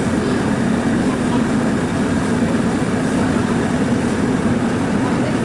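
A steady, loud mechanical drone with a low hum, unchanging throughout.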